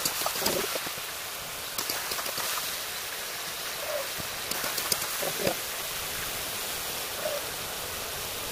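Chicken and potato pieces sizzling in oil in a kadai, a steady hiss, with a spatula scraping and knocking against the pan in short bursts near the start, around two seconds in and around five seconds in.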